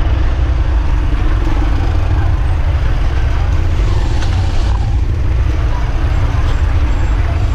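Steady low rumble and road noise of a vehicle ride along a rough, flooded road.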